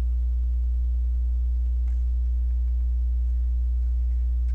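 Steady low electrical hum, like mains hum on the recording, with a faint click about two seconds in.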